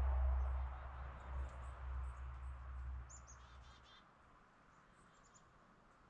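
A low rumble dies away about three seconds in, followed by small birds at a feeder giving a few quick, high chirps, with another short burst of chirps around five seconds in.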